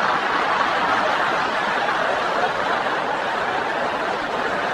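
A crowd of people laughing together, a dense steady wash of laughter.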